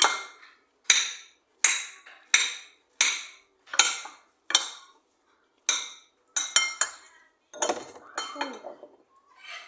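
Kitchenware clinking: a dozen or so sharp strikes, roughly one every two-thirds of a second, each ringing briefly like a utensil tapped against a glass or metal dish.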